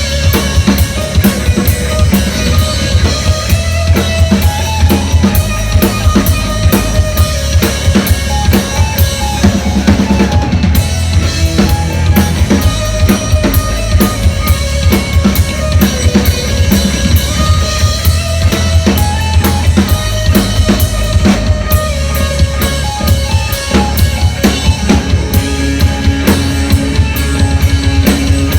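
A rock band playing live, with fast, driving drums, loud throughout, under sustained guitar and bass lines.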